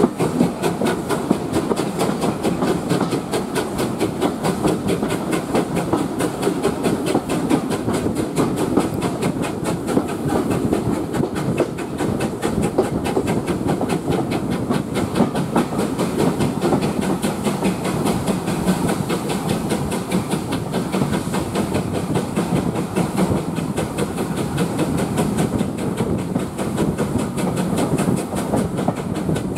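A heritage railway train running along the track: a steady rumble of wheels on rails with a fine clatter and a faint hiss.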